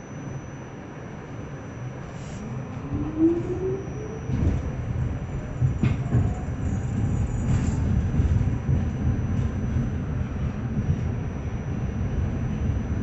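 Subway train accelerating: the traction motors' whine rises steadily in pitch from about two seconds in, over the wheels' low rumble and a few clacks over rail joints, getting louder as the train picks up speed.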